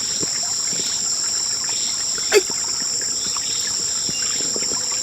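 Steady, high-pitched chirring of rainforest insects, with scattered small ticks and crackles and one sharp snap about two and a half seconds in.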